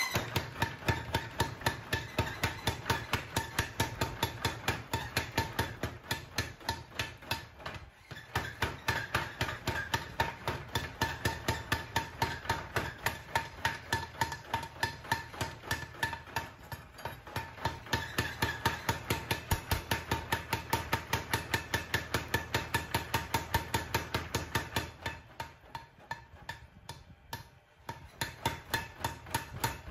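Rapid, regular hammer blows on steel being forged from a large bearing ball into a knife, about four strikes a second with a ringing note. The hammering breaks off briefly about eight seconds in and slackens near the end before picking up again.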